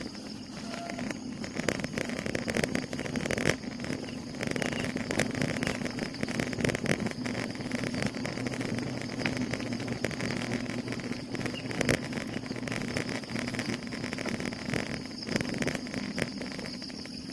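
Bicycle being ridden on a road: a steady rush of riding noise with fine rattling clicks from the tyres and frame over the surface. A steady high insect drone runs underneath.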